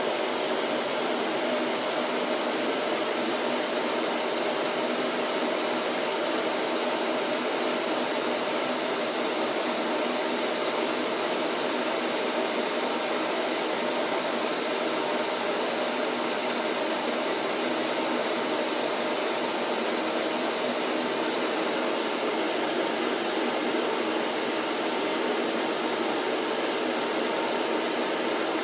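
Vacuum cleaner running continuously, a steady motor whine over a rushing airflow with no change in pitch or level.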